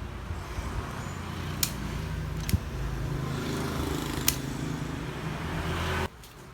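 Steady electrical hum from a mains-powered device, with a few sharp clicks, cutting off suddenly about six seconds in.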